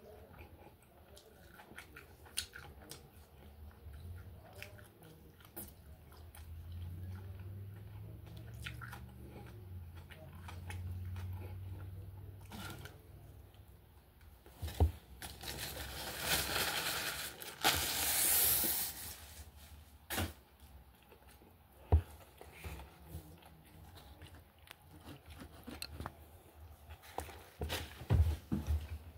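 A person eating beef steak tacos close to the microphone: chewing and biting with scattered sharp mouth clicks. A louder rustling burst lasting a few seconds comes a little past halfway.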